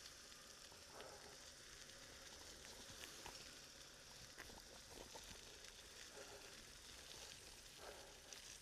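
Near silence: a faint steady hiss of outdoor ambience with a few faint ticks.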